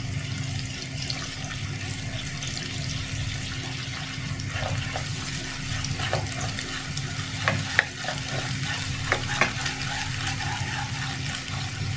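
Beaten egg frying in hot oil in a pan, a steady sizzle while it is stirred and broken into crumbly scrambled bits. Several sharp clicks of the stirring utensil against the pan come in the middle, the loudest around eight seconds in.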